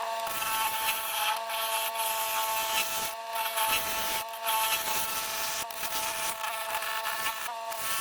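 Carbide-tipped turning tool scraping wood inside a yellow cedar and walnut bowl spinning on a wood lathe, over the lathe motor's steady whine. The cutting noise breaks off briefly about four times as the tool comes off the wood.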